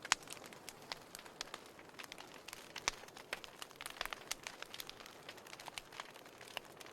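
Wood fire crackling in a fireplace: irregular pops and snaps over a soft hiss, with a sharp pop right at the start and another about three seconds in.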